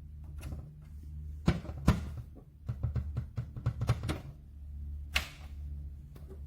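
Plastic flap of a PetSafe interior cat door swinging and knocking against its frame: several sharp clacks, then a quick run of rattling knocks and one more near the end. The flap has no magnets to hold it shut, so it swings freely, over a steady low rumble.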